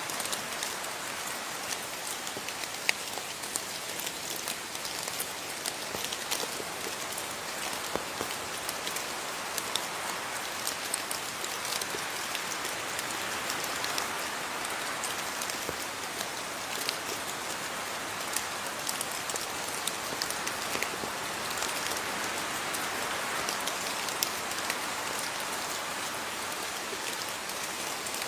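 Steady rain falling, a constant hiss with many separate drops pattering and ticking on a surface.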